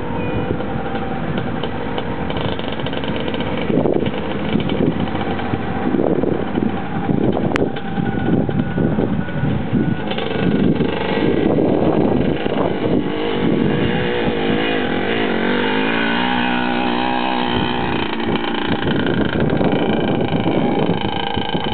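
Motorcycle engine running as the bike is ridden, its pitch rising and falling with the throttle.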